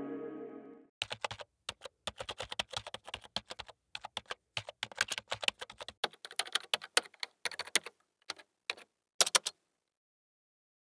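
Typing on a computer keyboard: rapid, irregular keystroke clicks for about eight seconds, stopping abruptly, with ambient music fading out at the very start.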